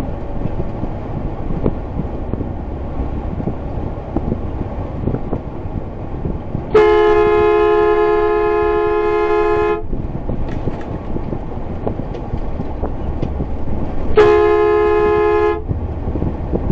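Car horn sounding twice over steady low road noise: a long blast of about three seconds, then a shorter one of about a second and a half, each with two notes sounding together. It is a warning at an SUV that has just cut in front.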